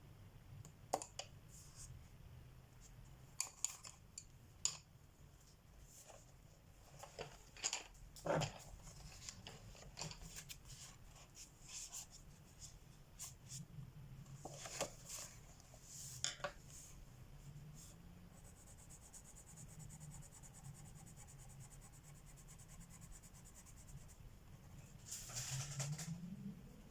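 Colored pencils clicking and tapping against each other and the table as they are picked up and put down, with a stretch of steady pencil shading scratching on paper about two-thirds of the way through.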